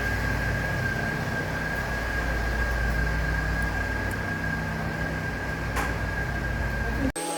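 Mercedes A160 engine idling steadily with a thin high whine held over it, cut off abruptly just before the end.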